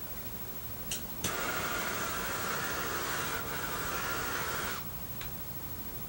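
A gas torch lit with a couple of clicks, then its flame hissing steadily for about three and a half seconds before it shuts off, relighting the fuel in a bee smoker.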